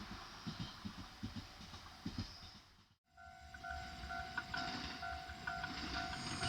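A JR Kyushu train running on the line, a low rumble with irregular knocks from the wheels. After a sudden cut about halfway through, the low rumble goes on with a steady electronic tone that keeps breaking off and coming back.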